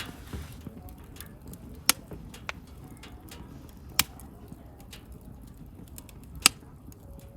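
Wood bonfire crackling: a low steady rush of burning with scattered small ticks and three loud, sharp pops from the wood, the loudest near the end.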